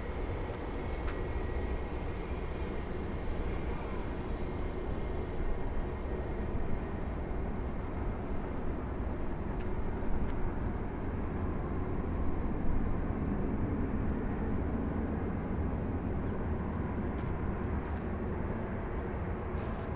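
Jet airliner engine noise: a steady rumble, with a faint high whine that fades away over the first few seconds.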